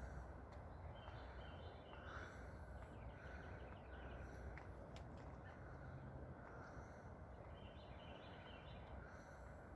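Faint wild songbirds calling over a steady low background rumble, with two runs of quick repeated high notes, about a second in and again near the eight-second mark.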